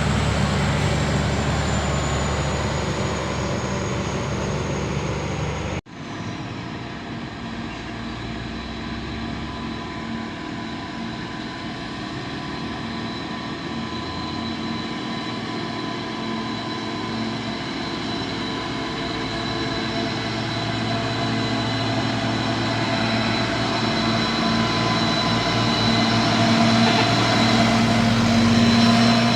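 Heavy truck engines running steadily, with an abrupt break about six seconds in. A low engine note grows louder toward the end.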